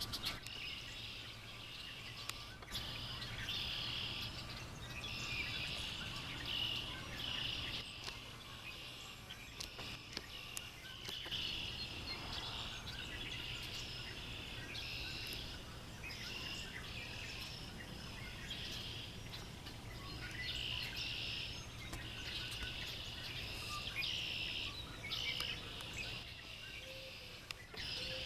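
Backyard birds chirping and calling in repeated bursts of about a second, over a steady low background hum.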